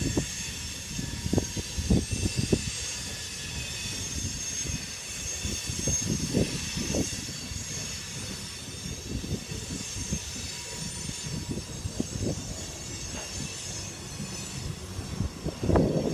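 Freight cars of a BNSF grain train rolling past: a steady high-pitched wheel squeal rings over irregular clanks and thumps from the wheels, and the clatter grows louder near the end.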